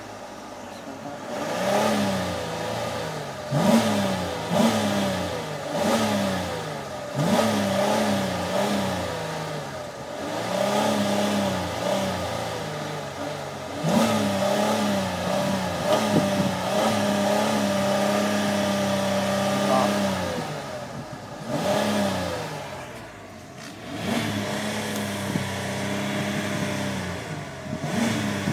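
Car engine revved by pumping the gas pedal: a series of quick revs that rise and fall back, then the revs held steady for a few seconds in the middle, falling off and revved again, and held steady again near the end.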